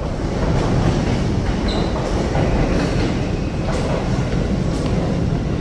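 Train running along a station platform: a loud, steady rumble that swells suddenly at the start, with scattered clacks from the wheels on the rails.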